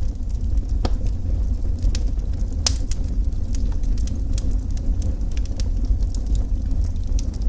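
Wood fire burning in a fireplace: a steady low rumble with frequent sharp crackles and pops, one louder pop a little under three seconds in.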